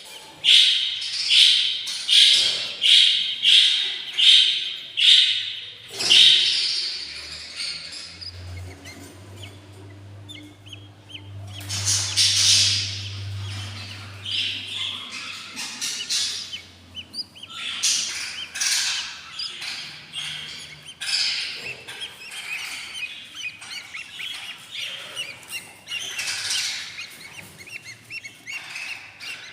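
Eight-day-old budgerigar chicks begging with high, raspy chirps: a regular run of about one and a half calls a second for the first six seconds, then scattered calls. A low hum runs for several seconds in the middle.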